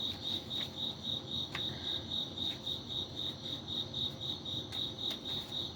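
A cricket chirping steadily: a high, even chirp repeating about four times a second.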